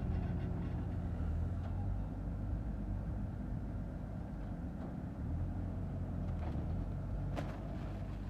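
A.K.M Koman 500 silage baling and packing machine running, a steady low mechanical drone with a few light knocks and one sharper clank about seven seconds in.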